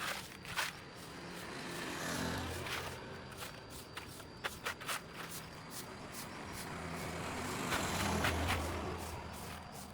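Two road vehicles passing, each swelling and fading away, the first about two seconds in and the second about eight seconds in. Sharp clicks and knocks come in between, over a faint steady high whine.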